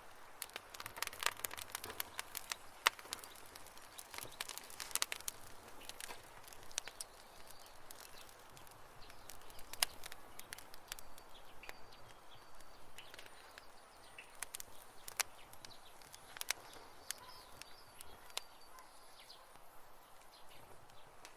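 Campfire crackling: wood popping and snapping in quick, irregular clicks over a soft hiss, with faint high chirps in the background.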